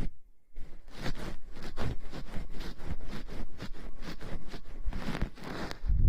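Close-miked ASMR rustling and scratching, a dense run of crackles that starts about half a second in.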